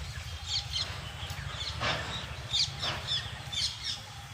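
Several birds chirping in short, high, falling notes, with two harsher, coarser calls about two and three seconds in, over a low steady rumble.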